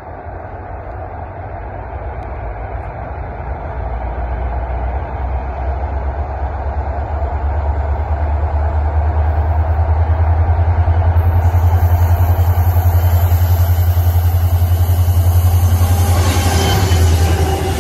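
Approaching freight train's lead diesel locomotives, two EMD SD40-3s and a GE C40-8, with a steady low rumble that grows louder as the train nears. A brighter, hissier wash joins in near the end.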